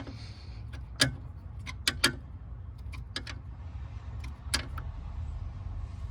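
Hand tools clinking and clicking against metal, about half a dozen sharp separate knocks, the loudest about a second in, over a steady low hum.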